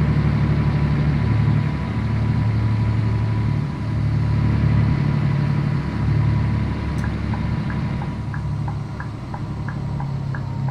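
Scania 113 truck's diesel engine running, its pitch shifting a few times. About seven seconds in, a regular ticking starts, about three clicks a second.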